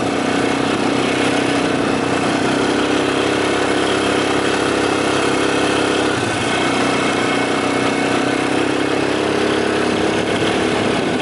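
Quad bike engine running steadily while riding, its note dropping briefly about six seconds in before it settles again.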